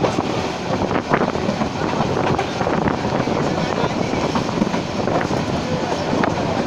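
Passenger train running along the tracks: a steady rumble and rattle, with a couple of sharp knocks.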